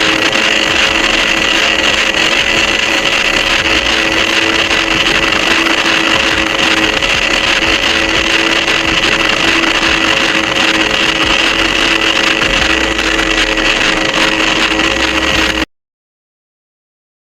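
Small DC gear motor whirring steadily at constant speed, a buzzing whine with a few fixed tones over a hiss. It cuts off suddenly about fifteen seconds in.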